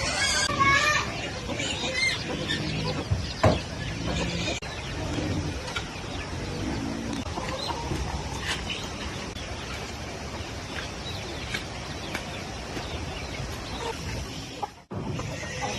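Chickens clucking, loudest in the first second or so, over a steady hiss. The sound drops out briefly near the end.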